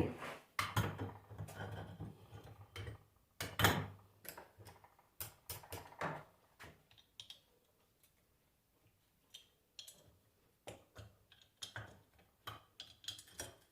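Scattered clicks and light knocks of metal tools and alternator parts being handled on a workbench, busier in the first half and sparse after that.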